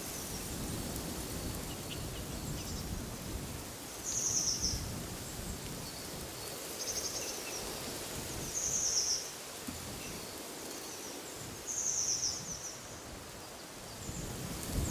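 A songbird repeating a short, high trilled phrase about every three to four seconds over a steady rush of wind in trees.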